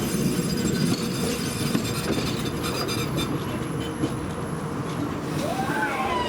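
Tram running along the track: a steady rumble of wheels on rails with faint steady high whine tones and a few sharp clicks and knocks in the first half.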